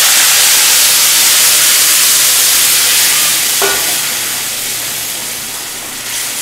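Moong dal with fish heads hitting a wok of hot mustard oil tempered with cumin, dry red chillies and bay leaves, sizzling loudly as it is poured in, the sizzle slowly dying down. A short knock about three and a half seconds in.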